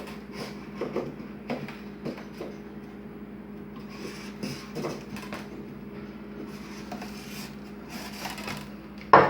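Highlighter tip rubbing and scratching in short irregular strokes as an outline is traced on a cooler lid, over a steady hum, with a sharp thump near the end.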